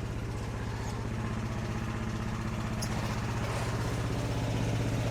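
Engine idling steadily with an even, rapid chug, growing slightly louder.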